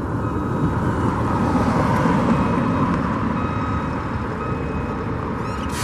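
Steady rumble of passing traffic and heavy vehicles, swelling about two seconds in, with a faint thin steady tone above it.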